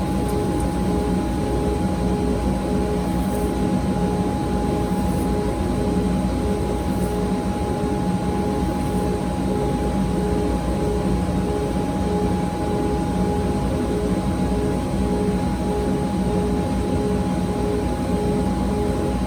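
An electric sharpening grinder running steadily, with a constant hum and a faint regular pulsing in its tone.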